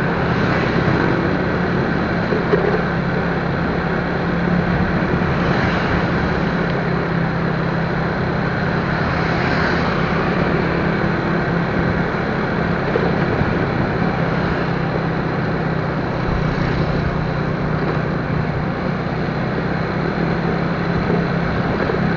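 Motorcycle running at a steady cruising speed, its engine a constant low hum under heavy wind and road noise on the microphone.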